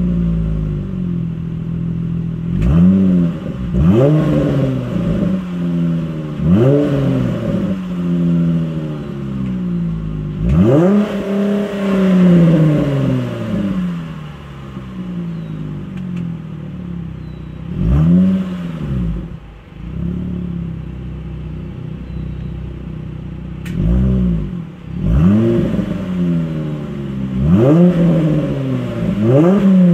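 Mazda RX-8 rotary engine revved through an HKS Hi-Power cat-back exhaust, blipped again and again from idle. Each rev rises and falls in pitch, with one longer, higher rev about ten seconds in.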